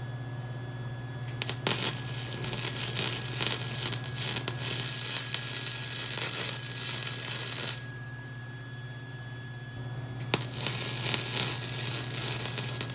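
Welding arc crackling in two bursts, a long one of about six seconds and a shorter one of about three, each struck with a sharp click, over a steady low hum. It is short stitch welding on thin steel minibike frame metal, stopping between bursts to let the metal cool so the weld doesn't drip through.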